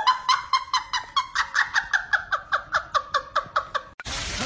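An animal giving a rapid, even series of short pitched calls, about five a second, which cuts off suddenly near the end.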